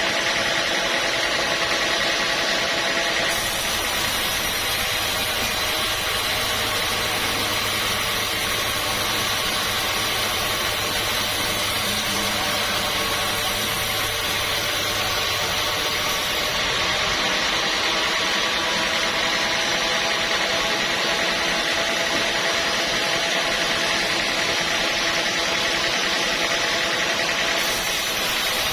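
Sawmill machinery running steadily: a continuous mechanical drone with several steady tones. A low hum comes in a few seconds in and drops out about halfway through.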